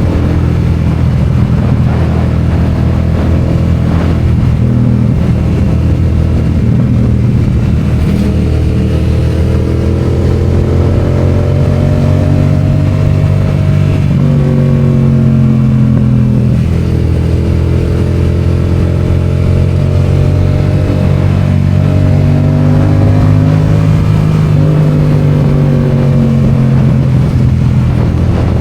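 Yamaha FZ-07's 689 cc parallel-twin engine running under way. The revs climb and drop back several times as the rider accelerates and eases off.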